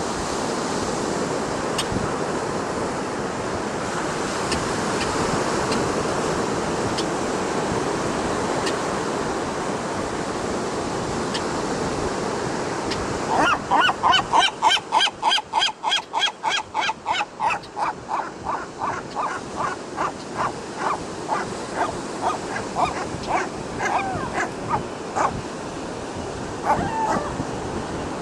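Ocean surf and wind over the microphone, then about halfway through a seagull gives a long series of repeated calls, about three a second, loud at first and fading off over some ten seconds, with a couple of single calls near the end.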